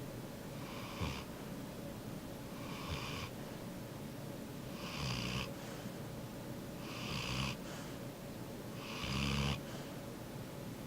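Yellow Labrador retriever snoring in its sleep: five snores about two seconds apart.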